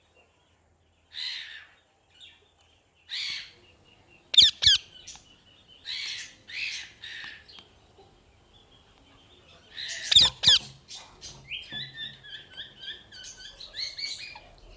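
Parrot squawking in separate harsh calls, with a few sharp whistles. Near the end comes a quick run of short chattering notes.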